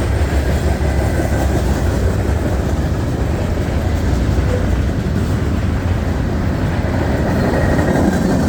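Freight train cars, mostly hoppers, rolling past on the track: a loud, steady noise of steel wheels on rail, with no let-up.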